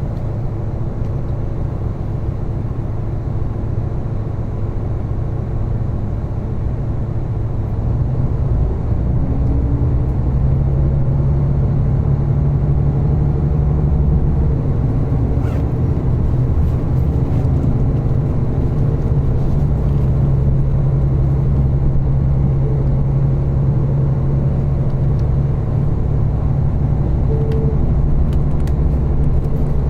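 Diesel railcar running, heard from inside the passenger cabin: a steady low engine drone with rolling noise that grows louder and rises in pitch about eight seconds in as the train picks up speed.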